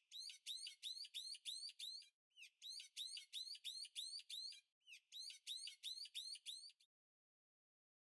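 A bird chirping in rapid trills: three runs of about two seconds, each a quick string of high rising chirps, with short breaks between.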